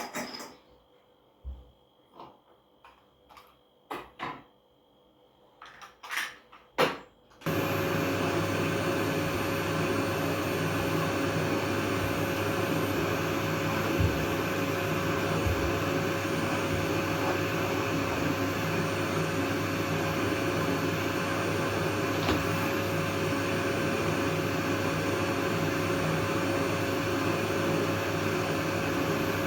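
A few light clicks and knocks, then a vacuum cleaner switched on about seven seconds in, running steadily with a constant hum.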